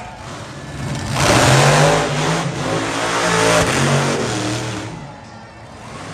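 Monster truck engine revving hard, the pitch rising and falling as the throttle is worked; it swells about a second in and eases off near the end.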